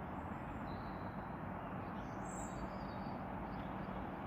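Steady low outdoor rumble with a few short, high bird chirps over it, one about half a second in and another around two seconds in.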